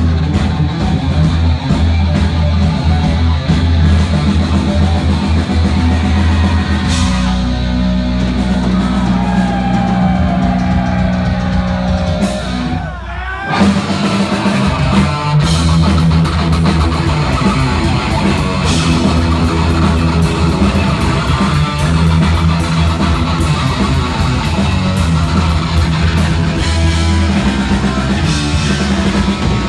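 Heavy metal band playing live: distorted electric guitar, bass guitar and drum kit. About halfway through the band drops out briefly under a sliding guitar note, then comes back in full.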